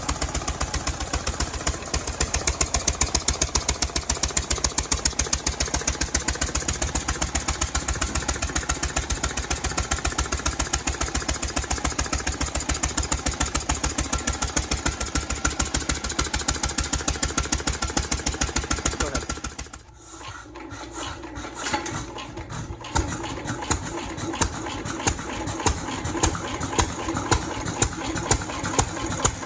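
Cushman Bean Special Cub hit-and-miss engine running with a fast, even beat; about two-thirds of the way in the sound drops away suddenly, and near the end slower, separate loud beats come back at roughly one every 0.7 seconds.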